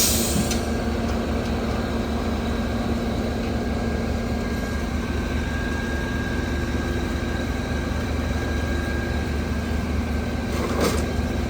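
Fire truck's diesel engine idling steadily, a constant low hum with a faint steady whine above it. A brief sharp clatter comes near the end.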